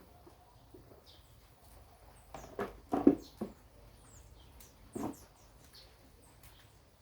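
A few short knocks and clatters, the loudest about three seconds in and another about five seconds in, with faint high chirps of small birds in the background.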